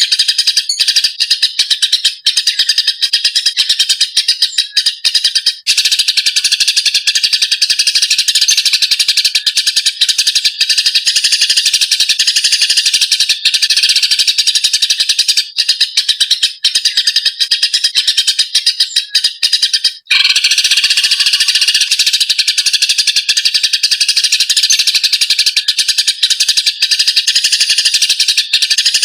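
Eurasian tree sparrows giving fighting calls: a fast, unbroken stream of shrill chirps and chatter, with a brief drop-out about twenty seconds in.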